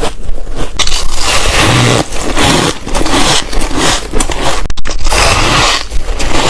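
Ice being bitten and crunched between the teeth, close to the microphone: a run of loud, dense crunches.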